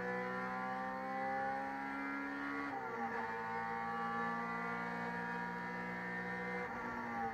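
Race car engine heard from inside the cockpit, pulling hard under full throttle with its pitch climbing steadily. There is an upshift about three seconds in, and the engine then climbs again until the revs break off near the end as the car nears a corner.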